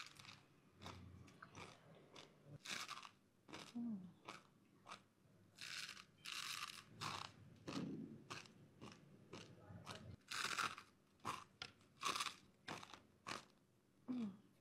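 Close-up crunching and chewing of thin, crisp, sauce-coated snack sticks, with irregular sharp bites and crunches about one to three a second.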